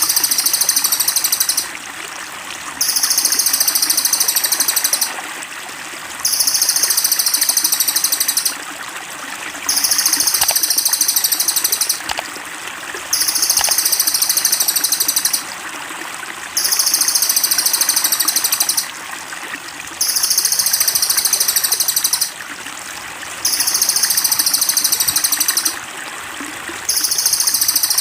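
Rapid, high-pitched songbird chirping in loud bursts of about two and a half seconds, each followed by about a second's pause, repeating evenly over and over like a looped tutor recording. Under it runs a steady trickling of water.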